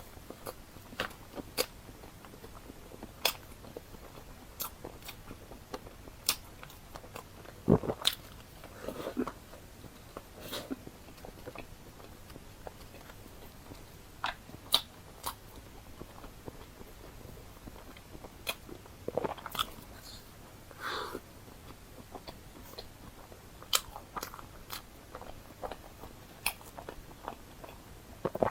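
A person chewing and biting food close to the microphone: irregular short clicks of the mouth and food, the loudest about eight seconds in.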